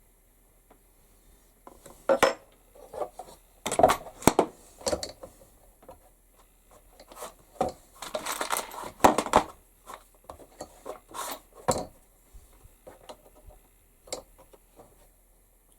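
Metal tools clinking and knocking irregularly as they are handled at a workbench, with a short scraping stretch about eight seconds in.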